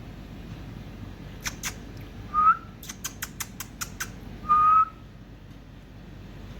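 Two short whistled notes at the same pitch, the second a little longer, with a quick run of about seven sharp clicks between them, over a steady low hum.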